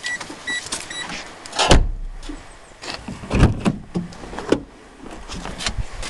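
A few short electronic beeps, then a string of clunks and knocks, the loudest about two seconds in and again about three and a half seconds in.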